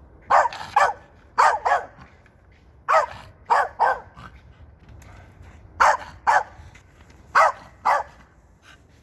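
A dog barking repeatedly, short barks coming mostly in pairs every second or two.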